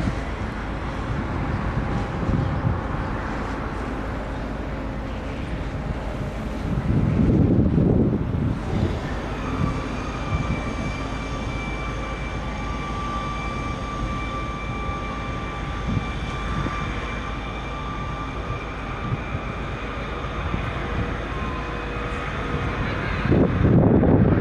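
Steady low drone of the car ferry Sunflower Gold's engines, with a thin steady whine from about nine seconds in and wind buffeting the microphone about seven seconds in and again near the end.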